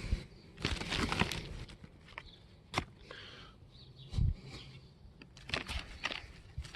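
Dirt being scooped and poured into a potato grow bag: short rustling, scraping bursts about a second in and again near the end, with a low thump around four seconds in.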